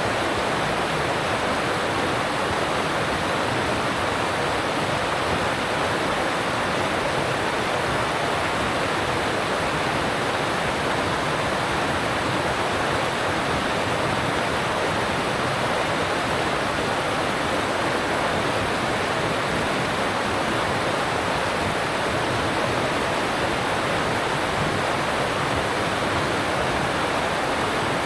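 Alpine mountain stream rushing steadily over rocks, an even, unbroken water noise.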